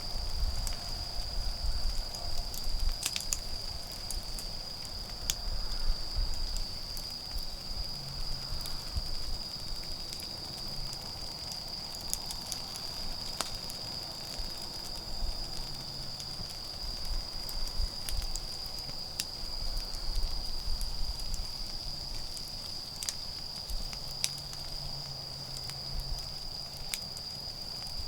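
Wood fire crackling with scattered sharp pops, over a continuous high-pitched trill of autumn insects.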